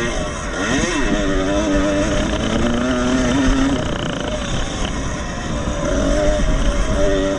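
Vintage 125cc two-stroke motocross motorcycle engines racing, their pitch rising and falling as riders work the throttle and shift. At least two engines at different pitches cross each other about a second in, and the sound eases off in the middle before coming back up near the end.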